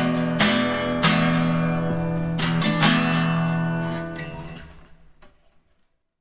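Acoustic guitar strumming the closing chords of a song, a few strokes, then the last chord rings out and fades away to silence.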